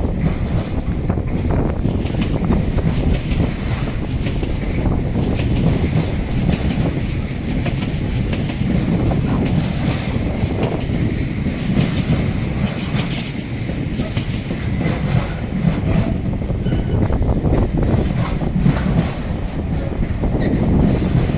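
Freight train rolling past at close range: a steady, loud rumble of wagons on the track, with repeated clicks from the wheels.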